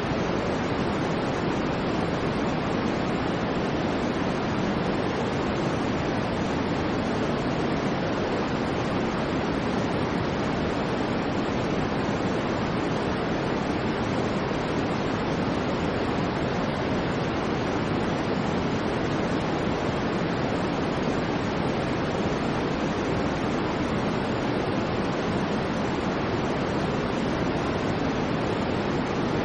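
Steady electronic white noise for sleep: an even, unchanging hiss with more weight in the low and middle range than in the treble, so it sounds like a soft rush rather than a bright hiss.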